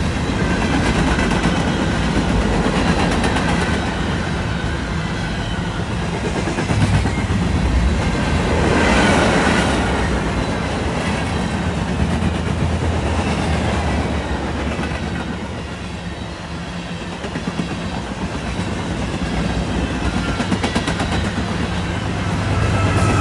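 Freight cars of a manifest train rolling past close by at speed, a continuous rumble and clatter of steel wheels over the rail joints. The sound swells and eases slightly as the cars go by.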